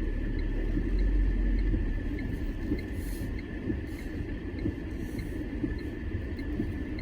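Tata Punch compact SUV driving off-road: a steady low rumble of engine and tyres on rough ground, with a faint even ticking above it.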